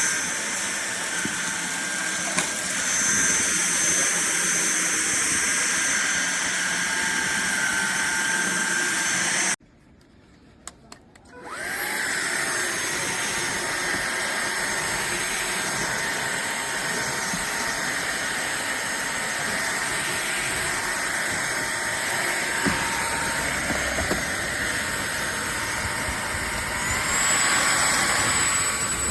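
Cordless stick vacuum cleaner motor running with a steady high-pitched whine. It cuts off about nine and a half seconds in; after a couple of clicks it spins back up with a rising whine. Near the end its pitch steps up higher.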